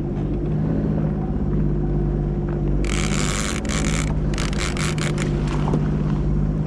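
Sea-Doo FishPro Sport 170 jet ski engine running steadily at low speed. Midway through come two short spells of loud hiss.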